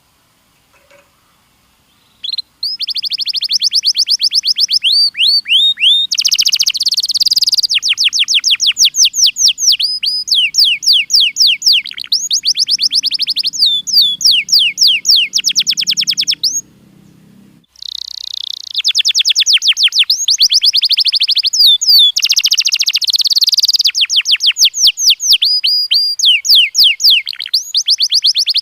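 Domestic canary singing: fast rolling trills of repeated downward-sweeping notes, starting about two and a half seconds in, with a short break about two-thirds of the way through before the song resumes.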